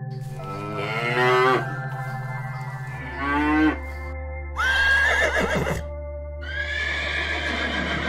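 Farm-animal calls over background music: two cow moos in the first half, then two high, wavering horse whinnies.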